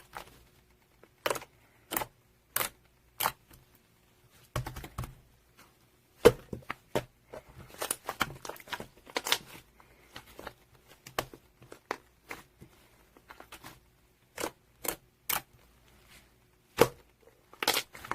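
Slime being squished and pressed by hand, giving irregular sharp clicks and pops, some single and some in quick clusters, with quiet gaps between.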